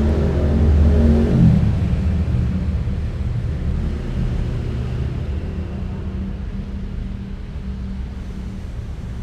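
Low engine rumble of a passing motor vehicle, loudest in the first two seconds and then slowly fading.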